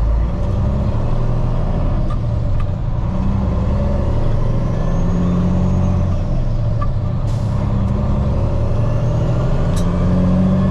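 Heavy truck's diesel engine running under way, heard from inside the cab, its note stepping up and down several times. A short hiss comes about seven seconds in.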